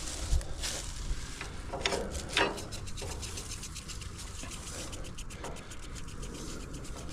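Footsteps rustling and scraping through dry grass and debris, with a low wind rumble on the microphone.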